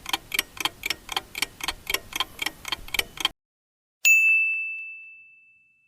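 Countdown-timer sound effect: a clock ticking fast, about five ticks a second, stopping a little past three seconds in, then a single bell ding about four seconds in that rings on and fades out.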